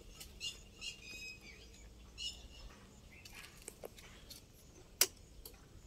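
Birds chirping in short, repeated high calls, mostly in the first two and a half seconds, then a single sharp click about five seconds in.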